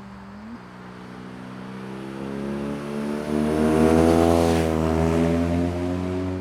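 Exhaust of a BMW R nineT's air-cooled boxer twin through its stock Akrapovič muffler with the baffle removed. The engine note climbs slowly, gets clearly louder about three seconds in, then falls back near the end.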